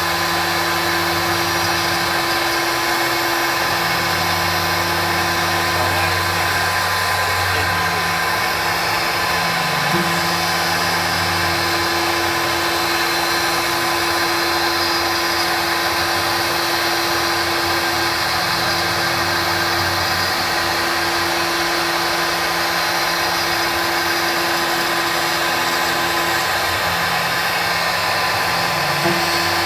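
Gravomak G-Force CNC router running: the spindle's steady whine, with a lower hum from the axis motors that starts and stops every few seconds as the machine moves.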